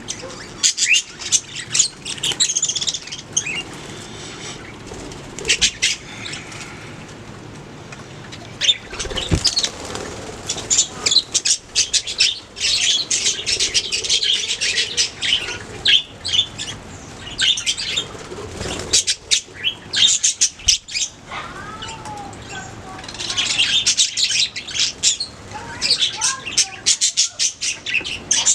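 Budgerigars chirping and warbling in dense, rapid chatter, in bursts that come and go with brief lulls.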